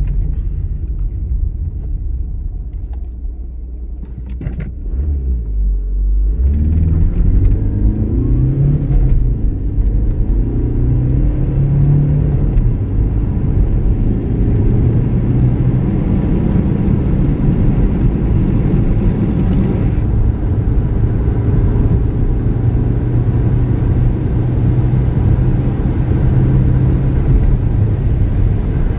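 Audi A3 8L's 1.9 TDI 110 hp four-cylinder turbodiesel, stock with 382,000 km, under hard acceleration from inside the cabin. After a quieter dip about four to six seconds in, the revs climb in rising sweeps broken by gear changes, then the engine pulls steadily at speed over road noise.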